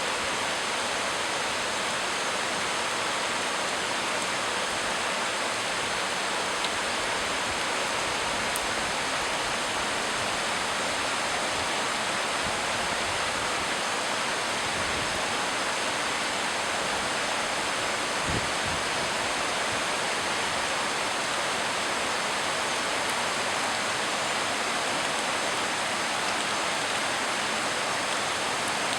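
Heavy tropical rain falling steadily, a dense even hiss with no let-up.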